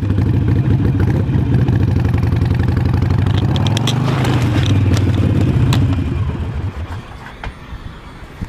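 Motorcycle engine running steadily just after being started, then dying away about six seconds in, followed by a few light clicks.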